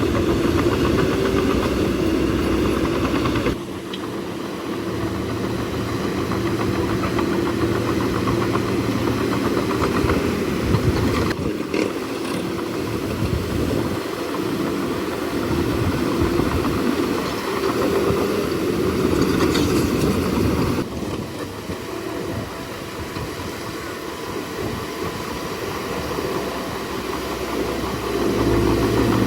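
Heavy diesel engine of a bulldozer running under load, a steady low drone. Its level and tone shift abruptly a few times.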